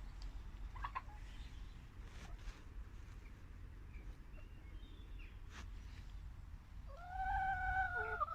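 Chickens: a brief chirp about a second in, a few faint clicks, and near the end one long, loud, drawn-out call from a chicken, held level and then dropping in pitch as it ends, over a low steady rumble.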